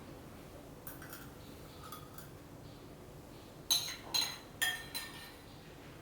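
A spoon clinking against a bowl of rice porridge as it is spooned out. There are a couple of light taps, then four louder ringing clinks in quick succession past the middle.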